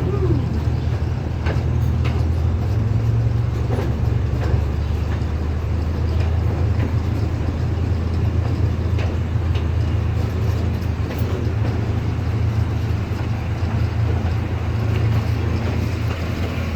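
Amusement-park train running along its track, heard from aboard: a steady low rumble.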